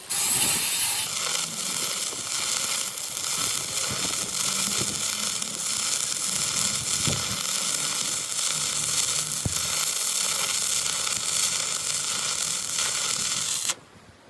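Electric arc welding: a steady crackling sizzle that starts abruptly and cuts off suddenly near the end.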